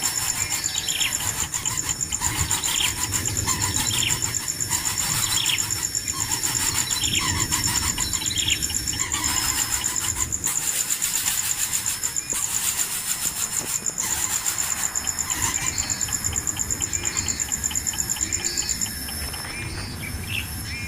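Birds chirping: short falling calls repeated through the first half, over a steady shrill high-pitched buzz that cuts off near the end.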